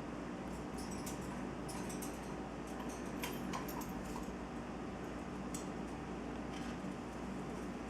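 Scattered light clicks and ticks from a yellow-sided conure in her cage, over a steady low hum.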